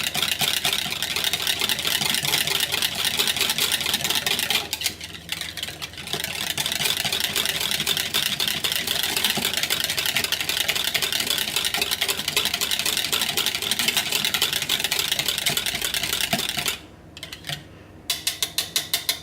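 Wire whisk beating raw soap batter by hand in a bowl: a fast, steady rattle of the wires against the bowl, with a short pause about five seconds in. It stops near the end, followed by a few separate taps.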